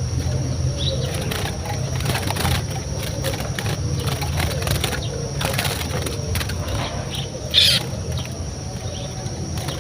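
Small birds fluttering and rustling as they are let go, with scattered soft clicks and a short high-pitched squeak about seven and a half seconds in.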